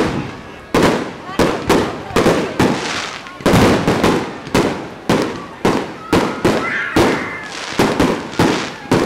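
Fireworks display: aerial shells bursting one after another, about two sharp bangs a second, each fading in a short echo.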